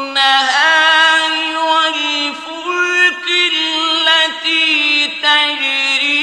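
Melodic Quran recitation by a solo male reciter: long held notes that bend and waver in ornamented runs, broken by short pauses.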